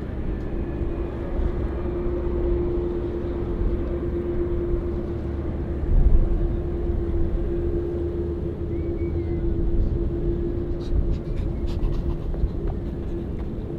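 A steady engine hum over a low rumble. The rumble swells briefly about six seconds in, and a few light clicks come near the end.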